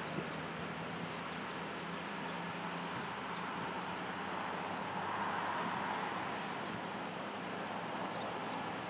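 Approaching diesel freight train: a low steady engine hum from the lead locomotive over a rush of wheel and rail noise from the container cars, swelling a little about five seconds in.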